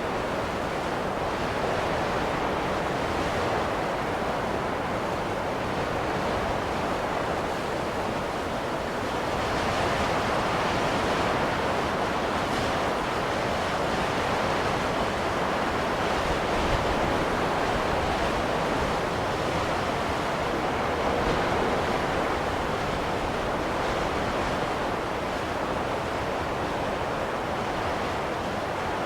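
Wind blowing through a snowstorm: a steady rushing noise that swells and eases gently every few seconds.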